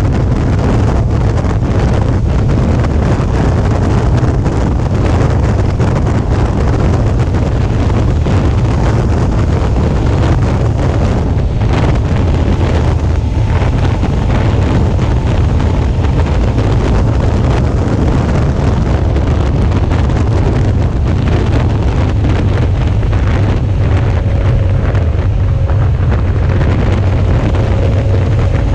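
Steady wind rushing over the action camera's microphone on a Suzuki V-Strom 650 riding at road speed, with the bike's V-twin engine running underneath as a low rumble. A faint thin whine comes and goes about halfway through and again near the end.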